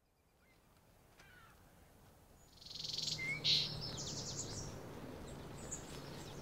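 Songbirds chirping and trilling, beginning about two and a half seconds in, over a faint steady low hum.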